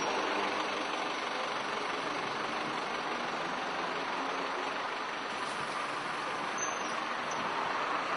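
Steady hiss and rumble of street traffic, even throughout and swelling slightly near the end.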